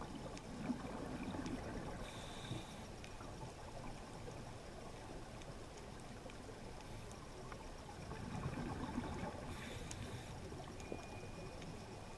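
Underwater rush of moving water with bubbling, swelling twice about eight seconds apart, each swell followed by a short high hiss, as a scuba diver's regulator breathing cycle would sound.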